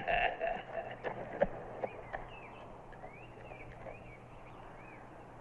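Quiet outdoor ambience with a few scattered knocks, then a bird chirping a run of short notes that rise and fall, over a low steady hum.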